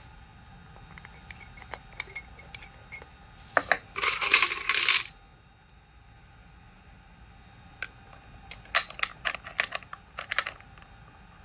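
Small metal parts and tools clicking and clinking as they are handled and set down, with a louder, noisy rattling burst lasting about a second, about four seconds in.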